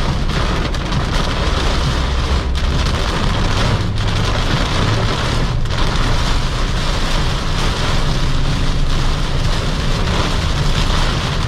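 Heavy rain pelting a car driving at speed, a steady hiss over a low road and engine rumble.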